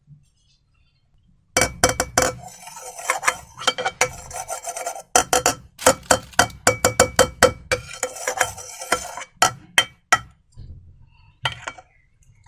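Slime being stirred and worked by hand, with dense runs of sticky clicking and crackling that thin out to scattered clicks near the end.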